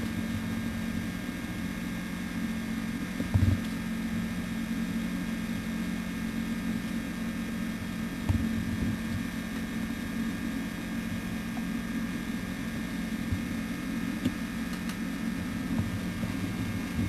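Steady low hum over a faint hiss, with a dull thump about three and a half seconds in and another about eight seconds in.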